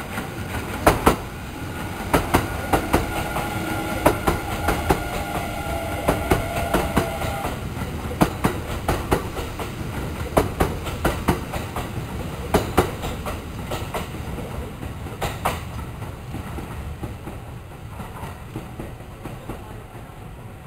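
Kintetsu 50000 series "Shimakaze" limited express electric train running past, its wheels clicking over rail joints above a steady rumble. A steady whine joins in for the first several seconds, and the sound fades toward the end as the train moves away.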